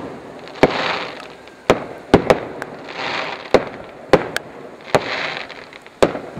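Fireworks display: aerial shells bursting overhead with about nine sharp, unevenly spaced bangs, and a hissing crackle from glittering stars between some of them.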